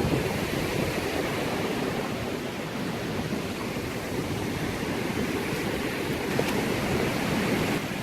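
Steady wash of surf on the beach, an even rushing noise with no distinct events.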